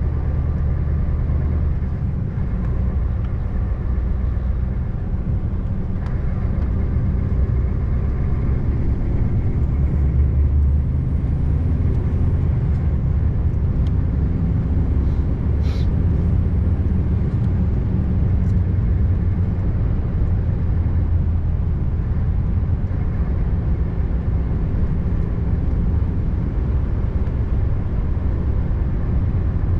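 Scania R590's 16-litre V8 diesel running steadily as the truck drives along, a continuous low drone, with one short click about halfway through.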